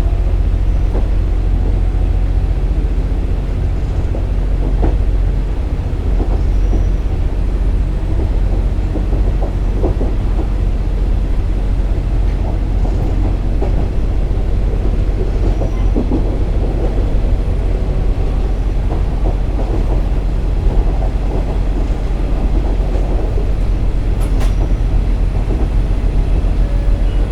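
KiHa 47 diesel railcar on the move: a steady low drone of engine and wheels on rail, with scattered sharp clicks from the wheels over the track.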